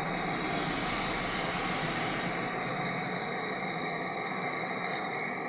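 A small electric motor running steadily with a low hum and a whirring noise.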